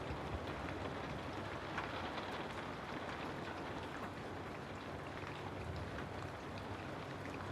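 Steady rainfall with scattered individual drops pattering on a surface.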